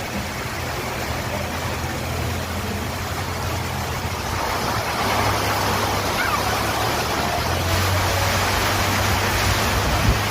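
Steady rain falling, growing heavier about four and a half seconds in, over a low steady hum.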